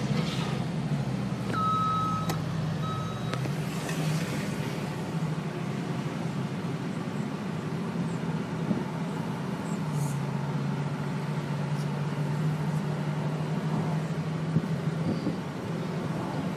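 Bentley Continental GTC Speed's twin-turbo W12 engine running steadily while driving, heard from inside the cabin. Two short electronic beeps come about two seconds in.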